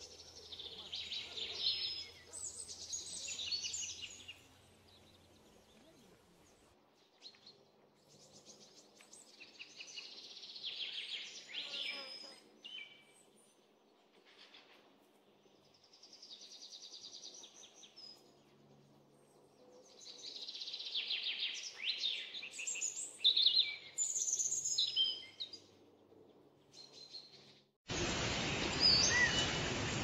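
Songbirds singing in bursts of rapid high chirping phrases with short pauses between them. About two seconds before the end the sound switches abruptly to a louder steady rushing noise with birds chirping over it.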